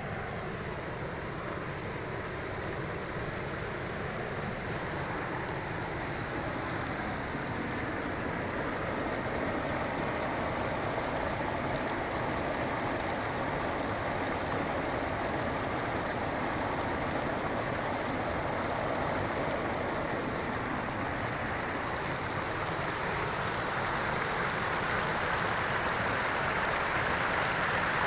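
Rushing water of a waterfall and stream, a steady roar that grows gradually louder toward the end.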